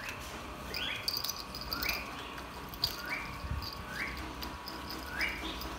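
A bird's high chirp, each one rising quickly and then holding briefly, repeated about once a second, six times. Under it, faint wet rubbing of shampoo being worked into a cat's fur.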